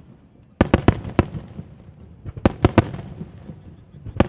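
Aerial fireworks shells bursting in quick volleys: a rapid run of four or five sharp bangs about half a second in, another run of about four bangs around two and a half seconds in, and more starting at the end, with a low rumble between.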